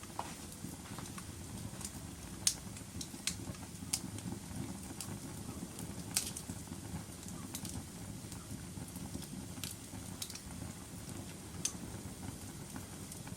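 Wood fire crackling in a fireplace: a steady low rumble of burning with sharp, irregular pops and snaps every second or two.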